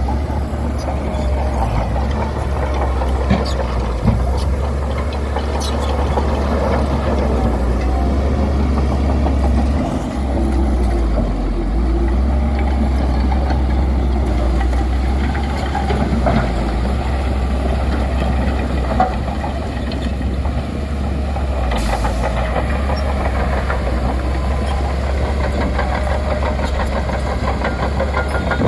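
Bulldozer's diesel engine running steadily under load with a deep drone while it pushes gravel, with a few sharp clanks.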